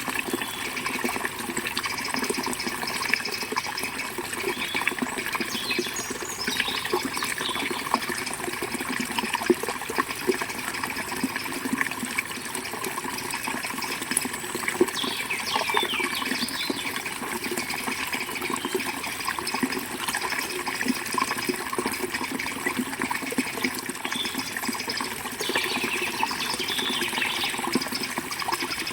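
Steady rush of a flowing river, with short bird chirps here and there above it.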